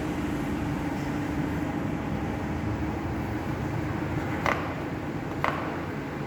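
Steady mechanical hum of running machinery, with two sharp clicks about a second apart near the end.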